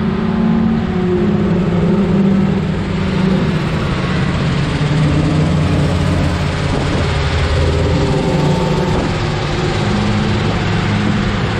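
Log truck's diesel engine running steadily, with low engine tones whose pitch shifts a little.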